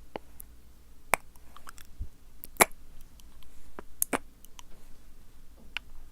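Sticky, wet ASMR mouth sounds close to the microphone: about ten irregularly spaced tongue clicks and lip smacks, the sharpest one about two and a half seconds in.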